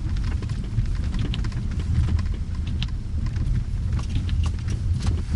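Car driving, a steady low rumble of engine and road heard from inside the cabin, with scattered light clicks.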